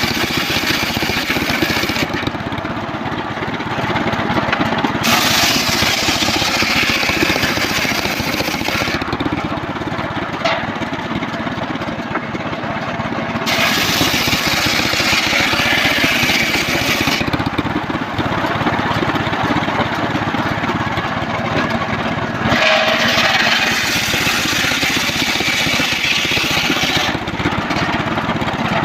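Engine-driven circular sawmill running steadily while its blade saws a trembesi log, a higher hissing cutting sound coming and going every three to five seconds.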